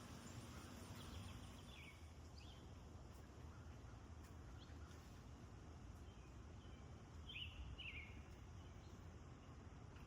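Faint bird chirps: two brief groups of short, downward-sliding calls, one near the start and one later, over a steady low outdoor background noise.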